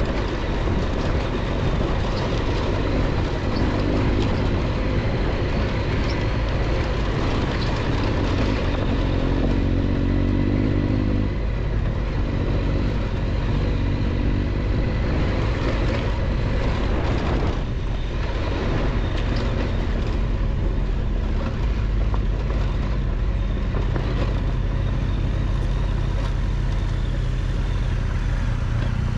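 Triumph Tiger 1200 adventure motorcycle's three-cylinder engine running steadily on a rough dirt road, under wind and road noise, with a few knocks from the bumpy track about two-thirds of the way through.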